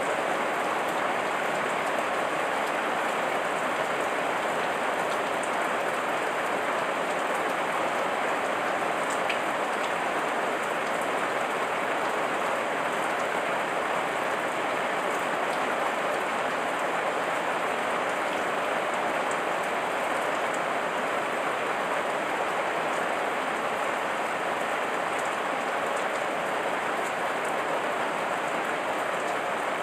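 Steady heavy rain falling on leaves and surfaces, an even hiss of many drops with no change in strength.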